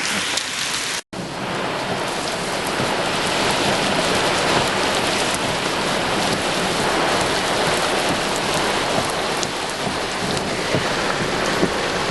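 Steady rain falling, an even hiss with scattered patter. The sound cuts out for an instant about a second in.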